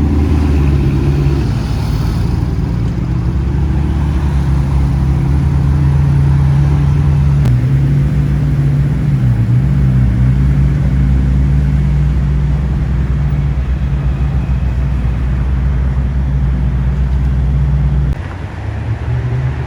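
A car engine running steadily at low revs, a loud low drone that dips briefly in pitch about halfway through and then cuts off sharply near the end.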